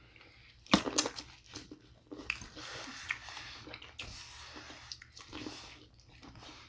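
Close-miked eating sounds: wet chewing and biting of sauce-covered seafood-boil food such as corn on the cob, with a few sharp mouth clicks about a second in.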